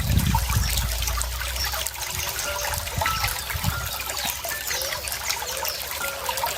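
Running water trickling steadily, with a low rumble in the first two seconds. Faint bird chirps come now and then.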